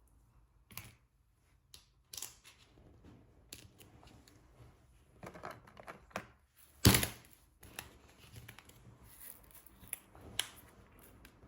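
Diamond painting at work: a drill pen picking up drills and pressing them onto the canvas, irregular small clicks and taps, with one louder knock about seven seconds in.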